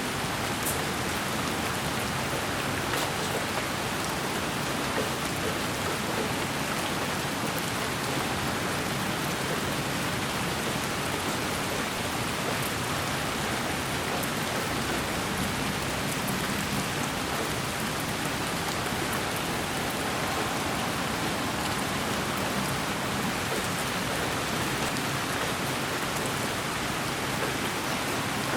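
Steady rain falling, an even hiss with a few faint, scattered drop ticks.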